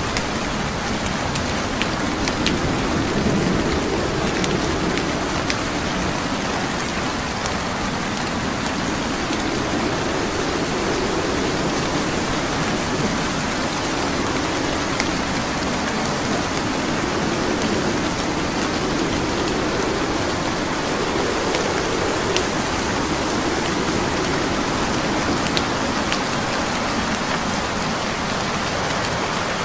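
Steady rain hissing evenly, with sparse sharp crackles of a burning wood fire scattered through it, over a low rumble that swells and fades.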